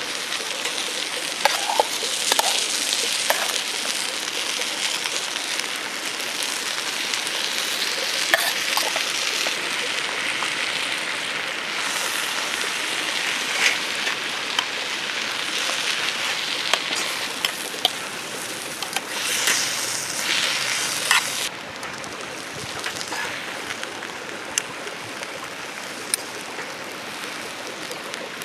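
Food sizzling in a hot pan, with scattered sharp pops and spits. A little over two-thirds of the way through it cuts off suddenly, leaving a lower, steady hiss of rain.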